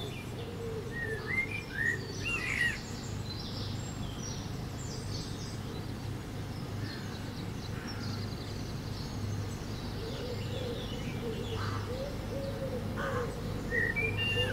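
Birds singing outdoors, with short gliding chirps about a second in and again near the end, and lower wavering calls in the second half, over a steady low background hum.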